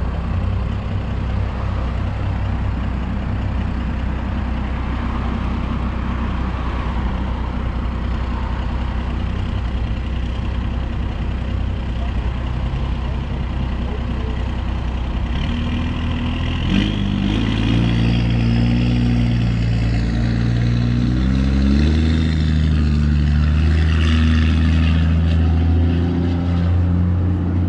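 Diesel pickup truck engine running at a steady idle, then revved up and down several times in the second half.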